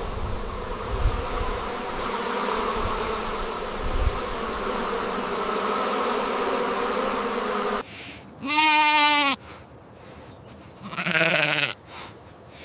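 A steady drone runs through the first part and stops abruptly. Then a sheep gives two wavering bleats, a loud one about two-thirds of the way in and a shorter, quieter one near the end.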